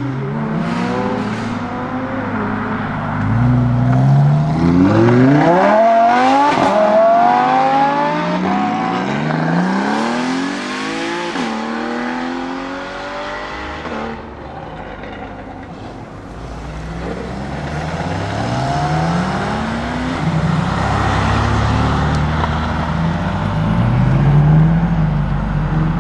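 Lamborghini Huracan STO's naturally aspirated V10 accelerating hard on track, its pitch climbing and then dropping back at each upshift, several times over. About fourteen seconds in it falls away and goes quieter, then it climbs through the gears again at a lower pitch.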